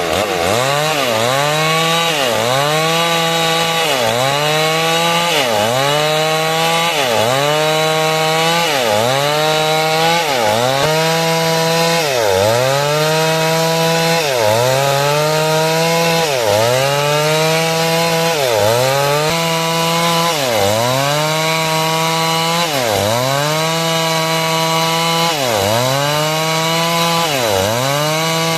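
Two-stroke chainsaw running at high throttle while cutting wood, its engine pitch dipping sharply and recovering about once every second and a half as it is loaded in the cut.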